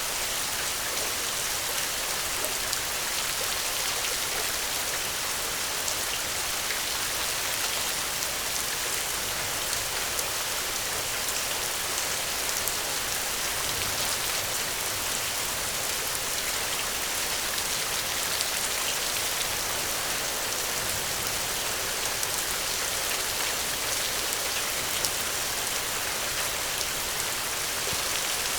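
Steady rain falling, an even dense hiss with scattered small sharp drop ticks.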